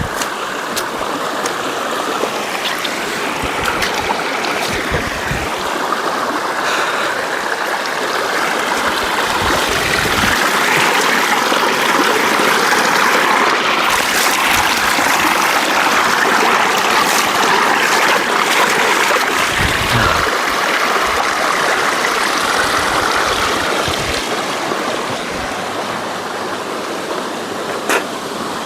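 Water rushing in a stream, a steady even rush that swells a little in the middle, with a few low thuds and one sharp click near the end.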